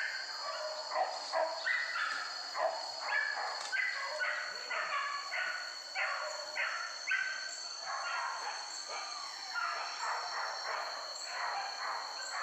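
A pack of hunting dogs barking and yelping in quick, overlapping calls, several a second, over a steady high-pitched whine.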